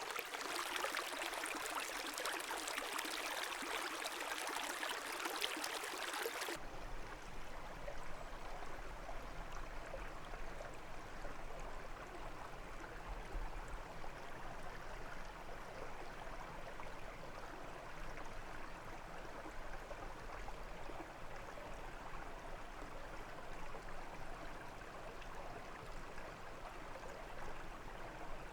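Brook water rushing and splashing with a bright hiss. About six seconds in, it switches abruptly to a softer, duller flow of water with a low rumble underneath.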